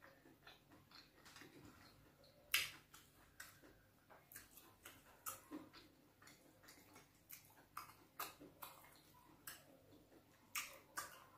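Close-miked chewing: irregular wet clicks and smacks of the mouth working a mouthful of fufu and bitter leaf soup, with one much louder click about two and a half seconds in.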